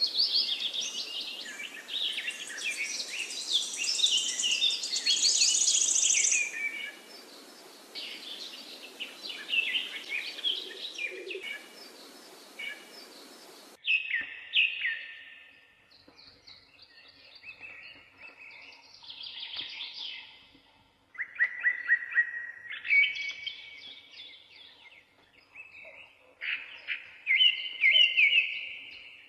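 Small birds chirping and singing in quick, overlapping calls. About 14 seconds in, the sound cuts abruptly: the background hiss drops away and the chirps come in separate short phrases.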